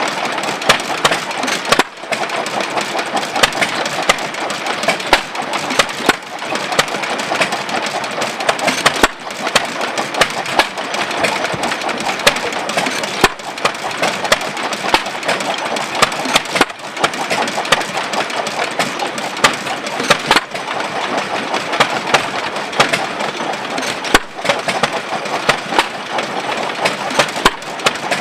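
1914–15 Amanco 'Hired Man' 2¼ hp single-cylinder hit-and-miss gas engine running, a dense mechanical clatter with sharp louder knocks every few seconds.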